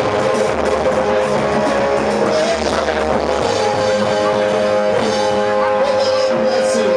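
Loud amplified band music with bass, guitar and a held keyboard-like note, played without words.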